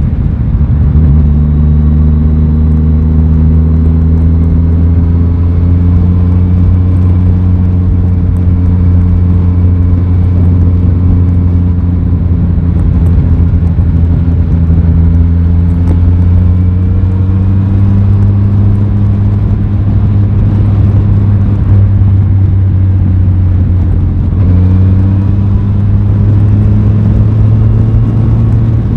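Aprilia Tuono 660 parallel-twin engine running on the road. Its pitch climbs slowly as it pulls steadily, then levels off and eases. Near the end the pitch jumps up abruptly.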